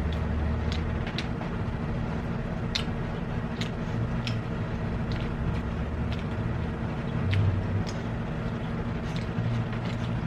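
Eating sounds: small irregular clicks and taps of chewing and utensils, over a steady low hum.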